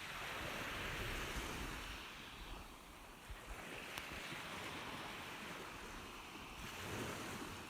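Ocean surf: waves washing in and drawing back, swelling and easing in slow surges every few seconds.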